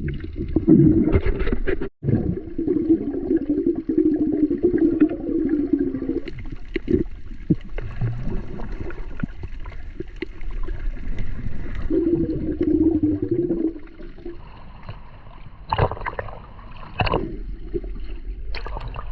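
Water gurgling and sloshing around a snorkeler's camera while swimming, with a few sharp splashes near the end.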